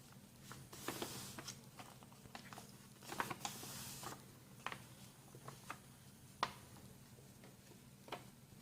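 A sheet of printer paper being handled and folded: short rustling swishes about a second in and again around three to four seconds, with scattered small crisp ticks as it is creased.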